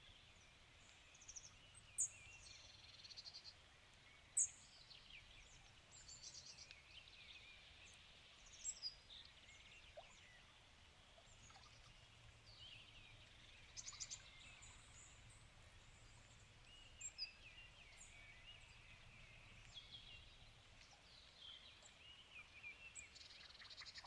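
Several songbirds singing and calling in a forest: many short, high chirps, trills and whistled phrases overlapping, with a few sharper loud notes in the first few seconds, over a faint background hush.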